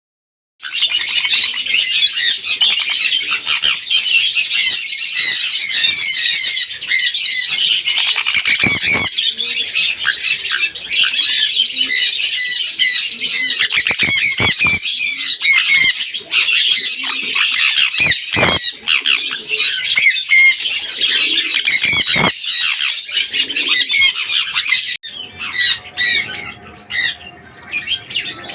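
Sun conure squawking and screeching in a dense run of shrill, rapid calls. The calls change and thin out a few seconds before the end.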